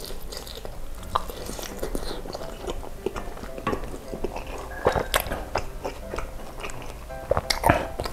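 Close-miked chewing of baso aci, chewy tapioca balls in spicy broth: wet mouth smacks and irregular small clicks.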